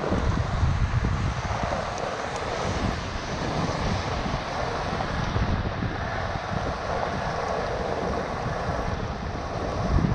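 Steady rain falling on pooled street water, with wind buffeting the microphone in a low rumble, while a hand swishes through the water scooping wet leaves off a clogged curb drain grate.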